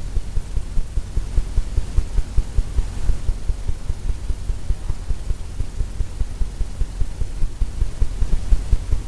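Rapid low thumping, about four or five a second, as a brush spreads oil paint across a stretched canvas on the easel.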